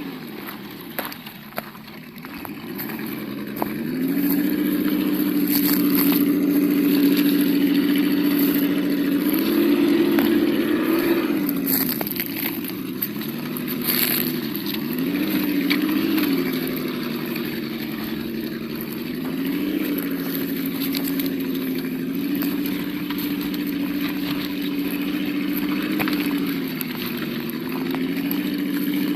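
Simulated engine sound from the sound module of an Absima Yucatan 1:8 RC crawler, its pitch following the throttle. It is low and quiet for the first few seconds, revs up about four seconds in, then rises and falls several more times. Scattered clicks can be heard over it.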